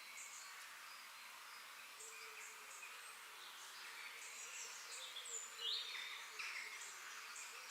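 Faint forest ambience: a steady background hiss with insects and scattered short bird chirps, the chirps loudest a little past halfway. A faint low hum runs beneath from about two seconds in.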